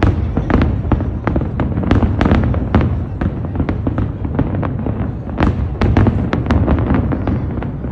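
Fireworks going off in rapid, irregular succession: many sharp bangs and cracks, several a second, over a continuous low rumble.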